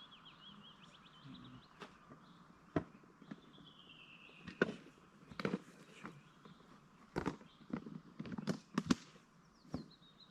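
Irregular sharp clicks and knocks, some in quick clusters, over a songbird singing short trilling phrases in the background.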